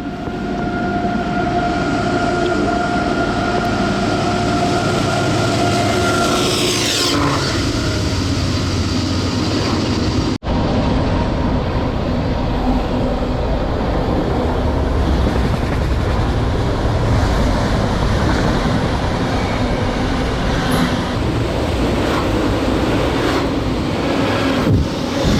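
A train passing close by: a steady locomotive whine that drops in pitch as it goes by about seven seconds in, then the continuous rumble of rail cars rolling past.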